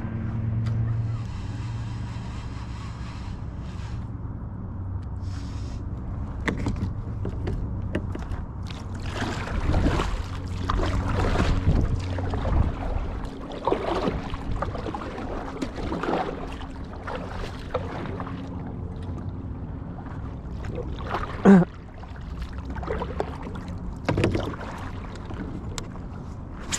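Handling noise aboard a fishing kayak: gear knocking and scraping against the hull, densest in the middle and with one sharp, loud knock about two-thirds of the way through, over a steady low hum.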